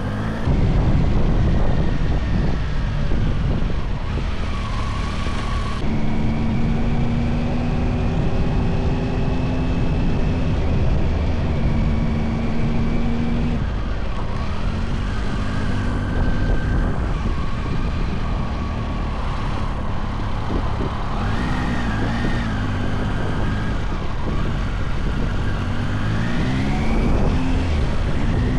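Motorcycle engine running under way, its pitch stepping and gliding up and down as the bike speeds up and changes gear, under a heavy rush of wind on the microphone.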